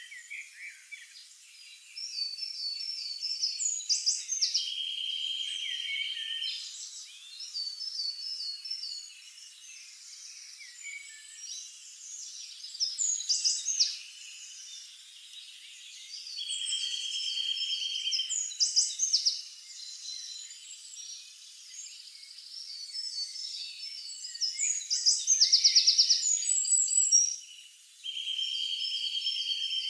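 Several songbirds singing together: quick repeated chirps, whistled phrases and trills, with one long, even trill that comes back about every ten seconds.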